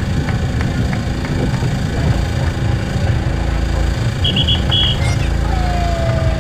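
Underwater recording filled with a loud, steady low rumble of noise, with scattered faint clicks, a few short high beeps about four seconds in, and a brief falling whistle near the end.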